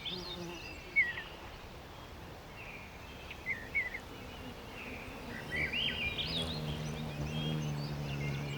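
Small birds chirping in short, scattered calls, with a low steady hum setting in about six seconds in.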